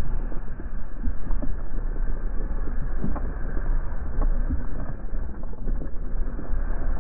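Mountain bike rolling over a dusty dirt trail: steady, muffled wind and tyre rumble on the camera microphone, with scattered small knocks and rattles from the bike over the ground.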